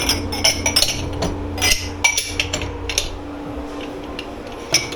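Dishes and cutlery clattering and clinking as they are handled in a dish pit, a quick run of ringing knocks for about three seconds and one more near the end, over a steady machine hum.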